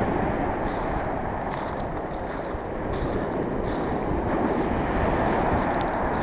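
Rough sea surf rushing and breaking on the shore in a steady wash, swelling a little in the second half, with wind buffeting the microphone.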